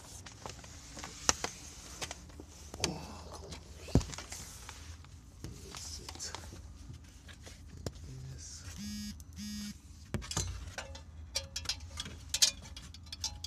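Scattered clicks, knocks and rubbing from handling tools and parts under a vehicle, over a low steady hum. Two short electronic beeps come about nine seconds in.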